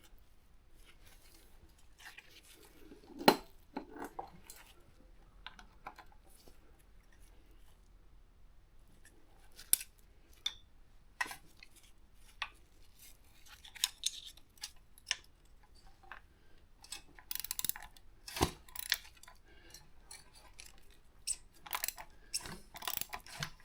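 Scattered light metallic clicks and clinks of small engine parts and hand tools being handled on a motorcycle engine's cam-belt pulley, growing into a quicker run of clicks over the last few seconds.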